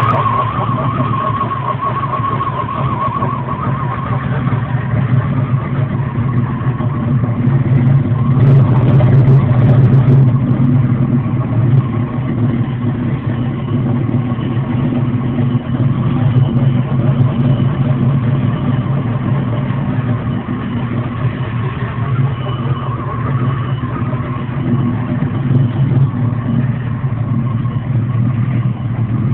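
Chevrolet Monte Carlo SS's small-block V8 running at a steady idle, a little louder for a few seconds about eight seconds in.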